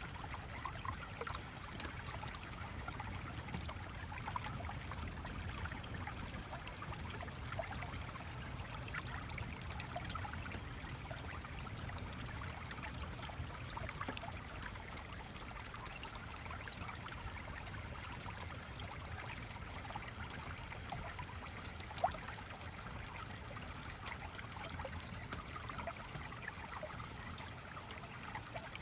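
Small stream trickling and bubbling steadily over a low rumble, with one sharp click about three-quarters of the way through.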